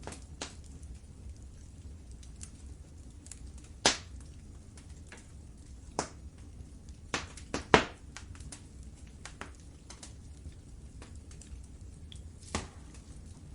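Wood fire crackling in a fireplace: sharp pops and snaps at irregular intervals over a low steady rumble of flame, with the loudest pops about 4 seconds in and a quick cluster around 7 to 8 seconds in.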